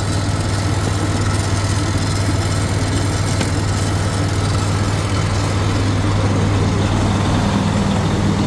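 A 2016 Freightliner Cascadia semi truck's diesel engine idling steadily with a low, even hum. A higher steady tone joins it about seven seconds in.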